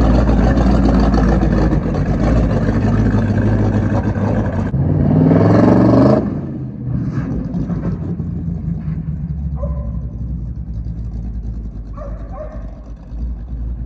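Rebuilt 305 small-block Chevy V8 of a 1968 Chevelle wagon race car running while being driven. About five seconds in it revs up with a rising pitch, then drops back abruptly to a quieter, steady run.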